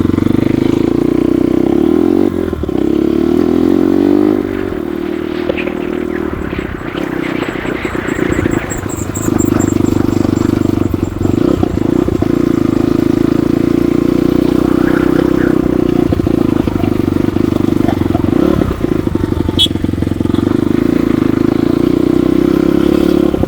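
Motorcycle engine running on a ride, its note sliding and easing off for a few seconds early on, then pulling steadily for the rest. A single sharp click sounds near the end.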